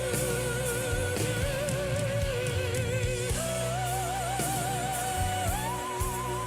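Male singer holding long operatic notes with wide vibrato over instrumental backing, stepping up in pitch twice to higher sustained notes.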